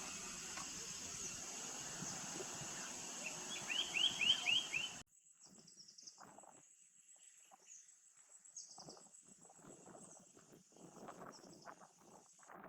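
A bird gives a quick run of about six short down-slurred whistles over a steady high insect drone and outdoor background. Just after, the sound cuts abruptly to a quieter stretch of faint high chirps and soft rustling.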